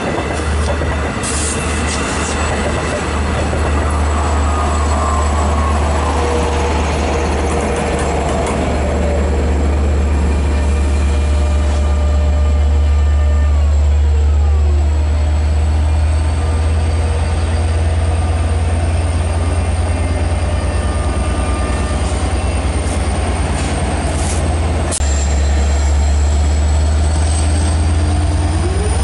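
Long Island Rail Road train going by close: bilevel coaches rolling past on the rails, then a DE30AC/DM30AC diesel locomotive with a loud, steady low engine drone. Several tones slide down in pitch as the train passes.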